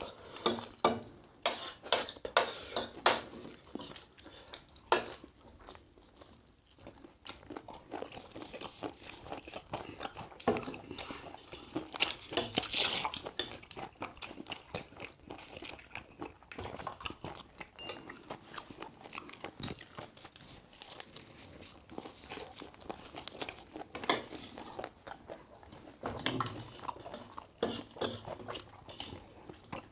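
A person eating close to the microphone: irregular crunching bites and chewing, with a flurry of louder crunches in the first few seconds.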